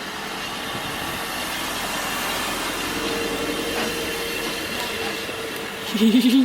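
A train running on the line with a steady rushing, rumbling noise, a faint held tone in it for a couple of seconds midway. Near the end a short, loud, wavering pitched sound cuts in over it.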